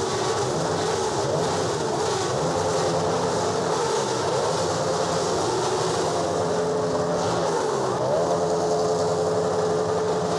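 Many sportbike engines revving together at high revs, a dense unbroken roar of overlapping engine notes, each rising and falling in pitch.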